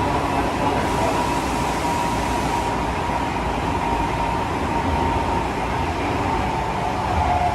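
Tokyo Metro 15000 series subway train running, heard from inside the car: steady rumble of wheels on rails with a thin whine holding one pitch, which dips lower near the end.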